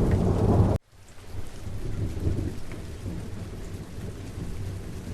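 Rain with a low rumble of thunder that cuts off abruptly just under a second in, then a quieter, steady rain and rumble returns.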